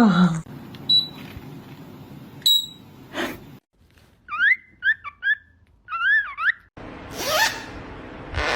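A parrot whistling: two short high chirps, then a run of quick whistled notes sliding up and down, followed by a hissy stretch with a rising whistle near the end.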